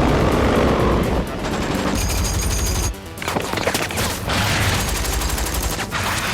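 Film battle soundtrack: rapid automatic gunfire in bursts over score music, with a brief drop in loudness about three seconds in.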